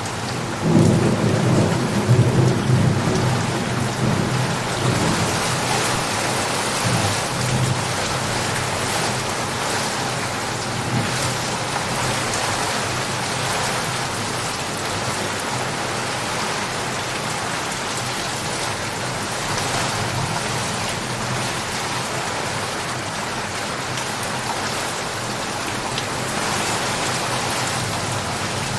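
Steady rain falling, with a low roll of thunder starting about a second in and fading out over the next few seconds.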